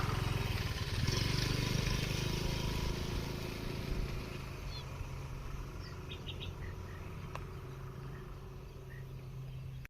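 Outdoor background noise: a steady low hum, loudest in the first few seconds and then easing off, with a few faint high bird chirps, a quick group of three about six seconds in.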